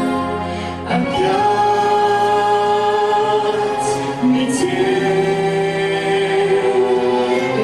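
A female and a male singer performing a duet in long held notes with musical accompaniment; the notes shift pitch about a second in and again after about four seconds.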